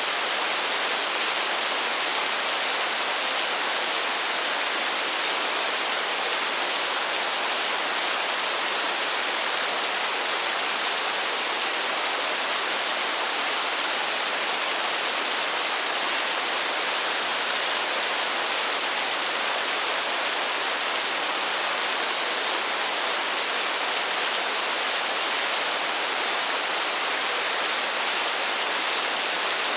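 Steady heavy rainfall: an even, unbroken hiss with no separate drops standing out.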